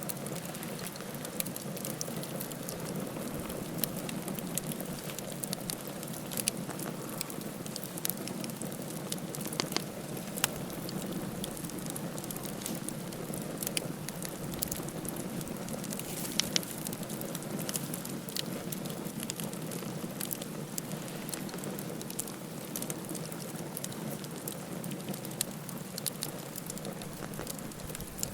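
Campfire burning: the wood crackles with many irregular sharp pops and snaps over a steady low hiss of the flames.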